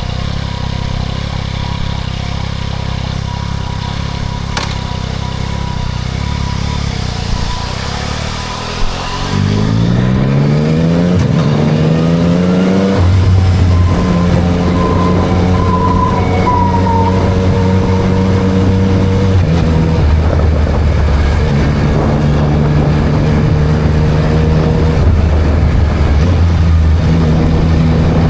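Yamaha MT-09 SP's inline-three engine through a Spark full exhaust: low and steady for about nine seconds, then louder as the revs rise in one climbing pull. The pitch drops back about thirteen seconds in and holds steady with a few small steps as it cruises, over wind and road noise.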